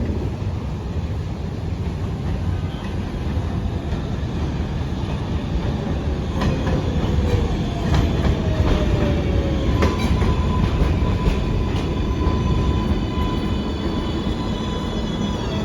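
R188 subway train pulling into an elevated station: a heavy, steady rumble of wheels on rail with a few sharp clacks over rail joints. Partway through, a motor whine slides down in pitch as the train slows, then a steady high tone holds through the braking to a stop.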